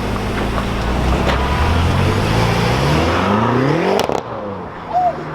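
Car engine idling, then revved with pitch climbing for about three seconds, a sharp crack at the top, and the revs falling away.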